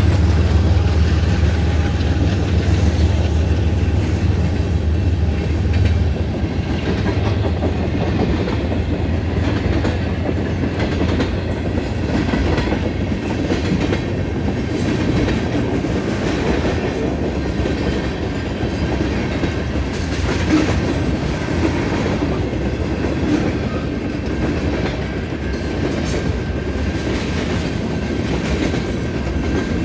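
A train running past on the rails: a steady heavy rumble that is strongest for the first six seconds or so and then eases slightly, with repeated clicks of the wheels over the track.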